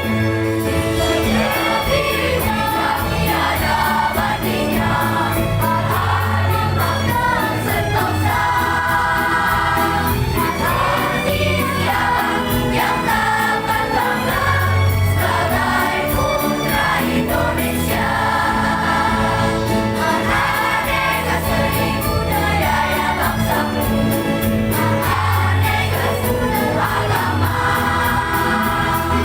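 A children's school choir singing together over an instrumental accompaniment with a steady bass line and beat.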